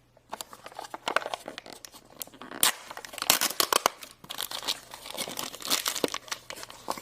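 Plastic toy packaging being torn open and crinkled by hand: a rapid, irregular run of crackles and rips.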